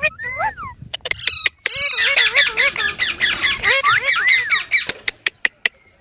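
Indian ringneck parakeet screeching: a few short rising-and-falling calls, then a long, fast run of harsh repeated screeches, with a few sharp clicks near the end.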